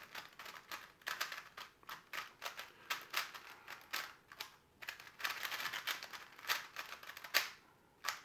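A 3x3 Rubik's Cube being turned fast by hand: a rapid, irregular clatter of plastic layers clicking and scraping as they rotate, with a short lull near the end.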